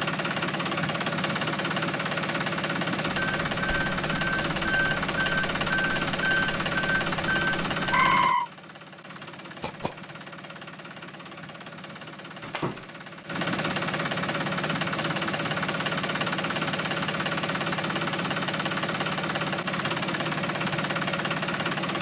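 A DIY mini tractor's motor runs steadily. Short high beeps sound over it just before it stops for about five seconds in the middle, with a couple of clicks. It then runs again.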